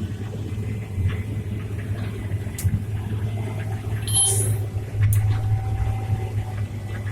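Farm machinery running with a steady low drone, with a few clicks and a brief high squeak about four seconds in.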